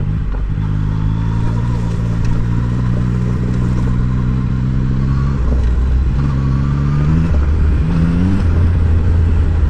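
Yamaha MT-09 inline-three engine running at low, steady revs, then the revs climb twice in the second half as the bike picks up speed on a rough road.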